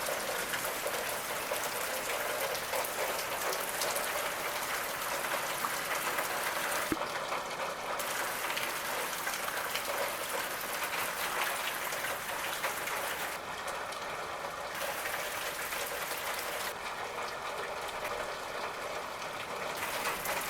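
Steady hiss of a passing storm, rain and high wind together, with no distinct events.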